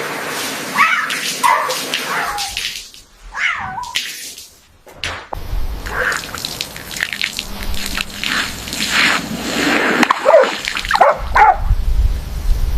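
A pet animal calling several times, short calls that rise and fall in pitch, over a steady noisy background.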